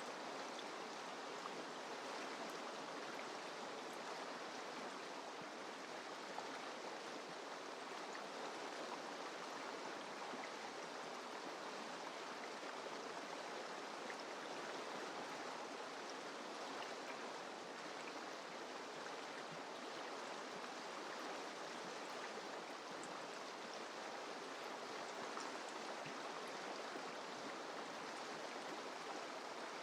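Mountain river flowing steadily, an even, unbroken water noise.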